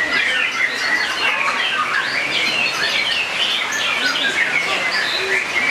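Many songbirds singing at once: a dense chorus of overlapping quick chirps, trills and whistles with no pauses.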